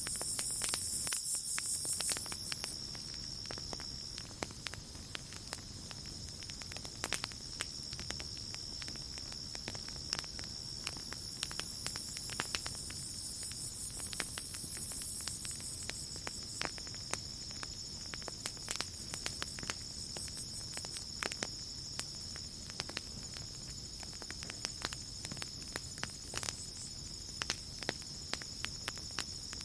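Campfire crackling with irregular sharp pops, over the steady high chirring of night crickets. A second, higher insect trill sounds at the start and again about halfway through.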